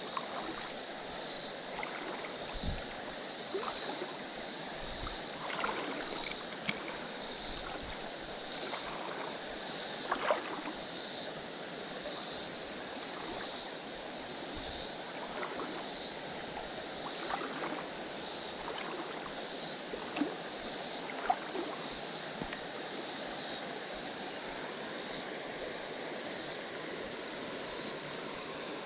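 Creek water running over rocks, with a high-pitched insect call pulsing evenly about once a second over it.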